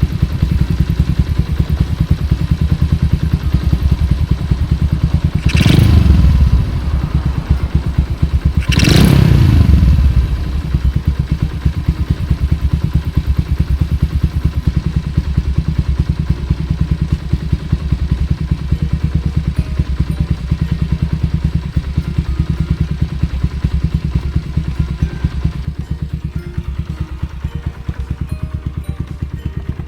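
Honda Super Cub's bored-up 88cc four-stroke single running through a Mizumoto Racing L-11 racing muffler, idling with a steady pulsing exhaust beat. It is blipped twice, about 6 and 9 seconds in, each rev falling quickly back to idle.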